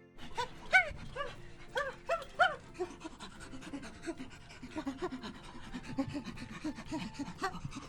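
An animal calling. First comes a series of short, arched, pitched calls that rise and fall, then a rapid run of shorter, lower, breathy calls.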